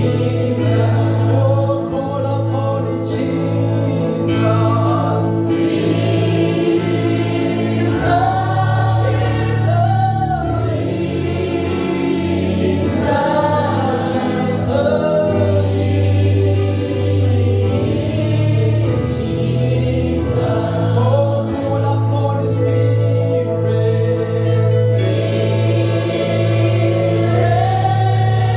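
Gospel choir singing a worship song over instrumental backing with a steady, sustained bass.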